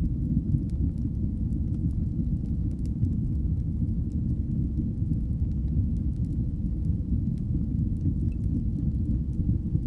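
Fire burning in a fireplace: a steady low rumble of flames with scattered faint crackles and pops.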